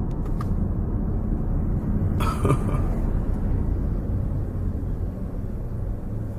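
Steady low rumble of road and engine noise inside a moving car's cabin, with a brief louder sound about two seconds in.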